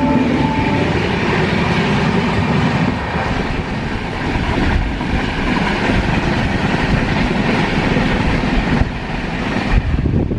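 Passenger train running on the line: a steady, loud rumble and rattle of the coaches' wheels on the rails.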